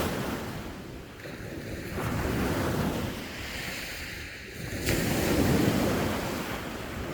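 Sea waves washing onto the shore in surges, one swell after another every two to three seconds, the loudest breaking sharply just before five seconds in.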